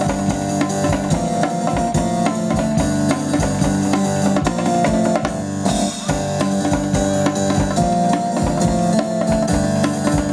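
Live band playing an instrumental passage of a song: held chords over a steady drum beat, with a cymbal crash about six seconds in.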